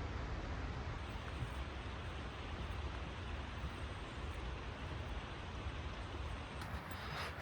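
Steady, even rush of fast-flowing creek water with a low rumble underneath. Near the end the sound brightens slightly and a few faint clicks come in.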